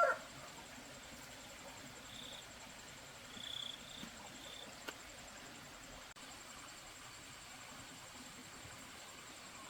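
Faint farmyard ambience: a few short, high chirps from birds between about two and five seconds in, over a steady high hiss.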